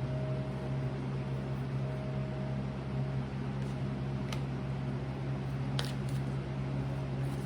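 Steady low mechanical hum in a small room, like a running fan or appliance, with a couple of faint clicks in the second half.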